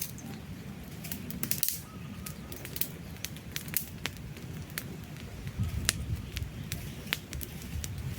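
Wood campfire crackling, with irregular sharp pops and snaps over a steady low rumble of flames.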